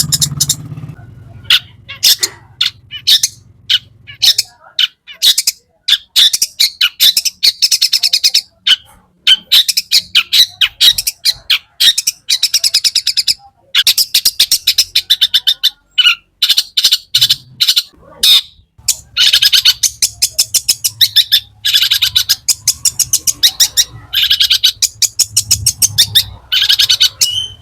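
Long-tailed shrike singing a loud, fast, varied song full of mimicked phrases: runs of rapid sharp chattering notes and trills in bursts of a few seconds, broken by short pauses.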